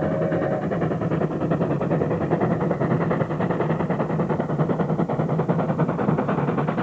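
Steam train running at speed, a fast, even clatter with a steady low rumble.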